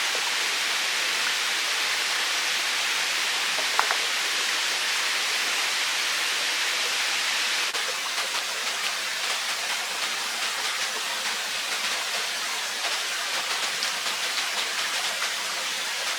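Steady rush of running water from a stream or small waterfall. A brief sharp click a little under four seconds in, and the rush turns slightly quieter and more spattery about halfway through.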